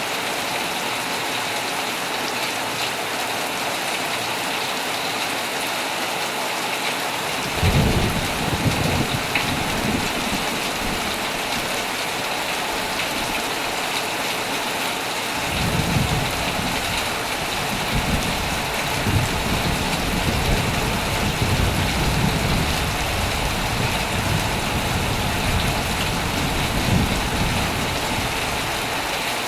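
Heavy rain falling steadily on a tent. A sudden low thunder rumble comes about seven and a half seconds in, and a longer one rolls from about halfway almost to the end.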